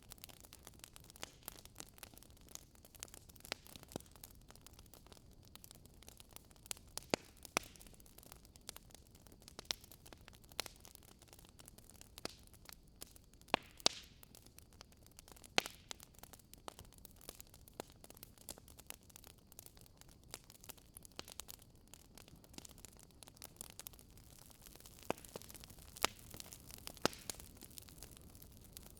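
Wood fire burning in a fireplace: a faint steady hiss with irregular sharp crackles and pops from the burning logs, a few of them louder.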